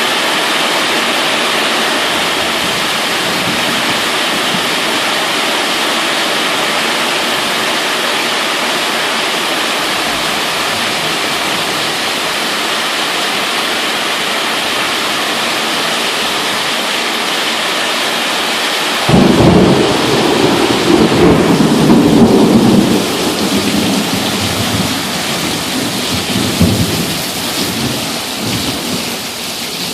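Heavy rain falling steadily, then a sudden loud clap of thunder about two-thirds of the way in that rumbles on and slowly fades.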